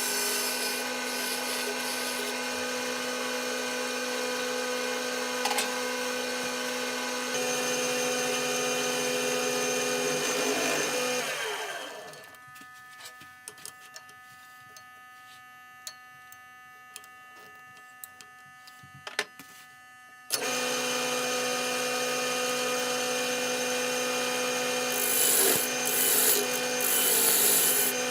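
Wood lathe running with a steady hum while a tool works the spinning walnut. About eleven seconds in the motor is switched off and winds down, leaving a quiet stretch with a few light knocks. About twenty seconds in the lathe starts again suddenly, and the tool scrapes against the wood near the end.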